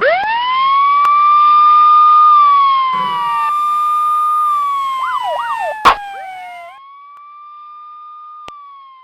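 Police car siren wailing. Each wail rises quickly to a held note and then slides slowly down, and a second wail overlaps the first. A few seconds in there is a short, fast warble and a sharp click. Another wail rises about seven seconds in and falls away near the end.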